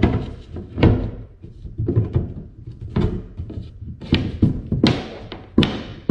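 A string of irregular knocks and thunks, about one or two a second, as parts are pulled off and handled on the wooden kayak deck.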